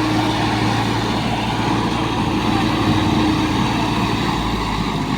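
Swaraj 744 tractor's three-cylinder diesel engine running steadily with a deep, even hum.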